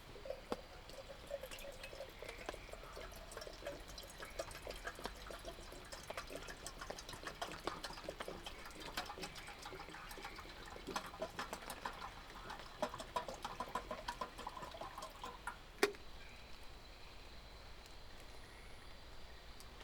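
Water pouring and trickling, with many small clicks and one sharp knock near the end.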